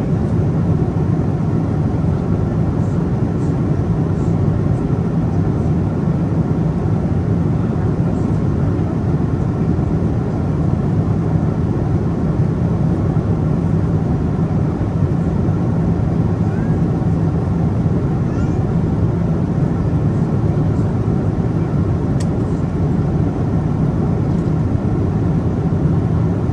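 Steady cabin noise of a Boeing 777-200ER at cruise, heard from an economy seat: a constant low rumble of airflow and engines with no change in level.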